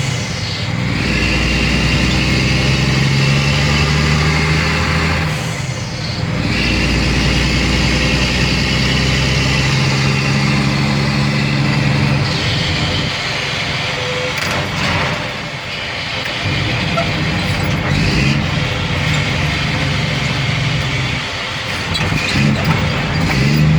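Diesel engine of a 2004 Mack Granite dump truck running under way. Its note breaks off and settles at a new pitch several times.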